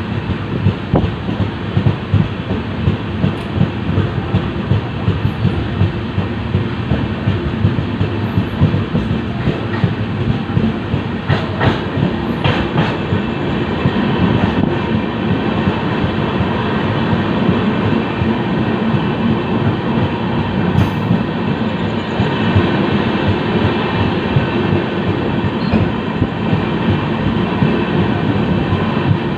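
LHB passenger coach running at speed: a steady rumble of steel wheels on rail with a rapid clatter over the track, and a few sharper clicks about halfway through.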